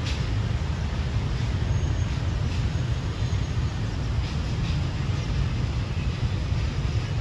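Steady low rumble of a container freight train hauled by a D19E diesel-electric locomotive, with a few faint clicks over it.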